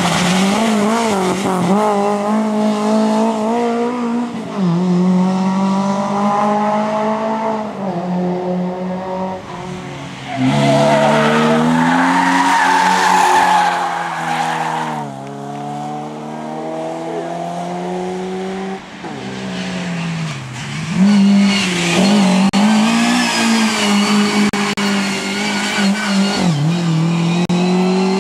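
Rally car engine revving hard, its pitch climbing and then dropping sharply with each gear change, several times over, along with tyre squeal. A burst of rushing noise with the revs high comes around the middle.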